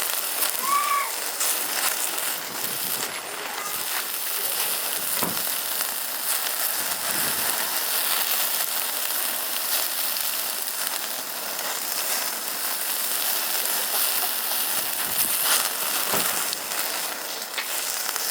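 Meat sizzling on a grill over a wood fire: a steady hiss with scattered pops and crackles.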